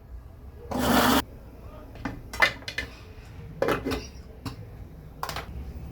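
A short burst from an electric blender about a second in, followed by scattered knocks and clinks of kitchen utensils and dishes being handled.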